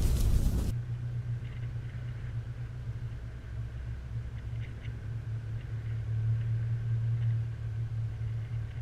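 A loud rushing noise cuts off suddenly under a second in, leaving the steady low hum of the 2015 Toyota Land Cruiser Prado's engine idling, heard from inside the cabin.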